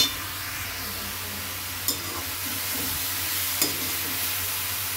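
Grated bottle gourd sizzling in hot ghee in a steel kadhai, stirred with a steel spoon that clinks against the pan a few times. The gourd is being roasted to drive off the water it releases.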